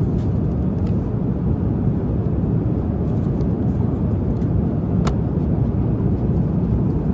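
Steady cabin noise of a jet airliner in flight: an even, low-pitched rush of engine and air. A single light click about five seconds in.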